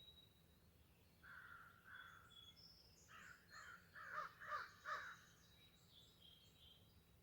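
A crow cawing: two hoarse calls about a second in, then a quick run of about five harsh caws between three and five seconds in. Faint thin chirps of small birds sound behind.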